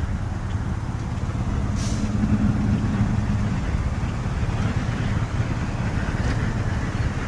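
Road traffic: a steady low rumble of vehicles running and passing close by, with one engine note a little stronger about two seconds in.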